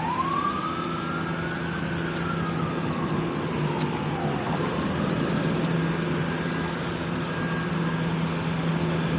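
Emergency vehicle siren wailing: one slow rise and fall in pitch in the first half, fading after, over a steady low hum.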